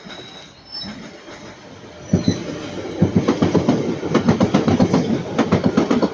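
A train passing close by, its wheels clattering over the rail joints in a rapid run of clicks and knocks that grows loud about two seconds in, with a faint wheel squeal at first.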